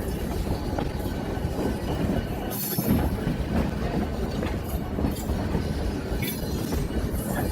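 Excursion train rolling along the track: a steady rumble with scattered clicks from the wheels and rails. A brief high hiss comes about two and a half seconds in and again near the end.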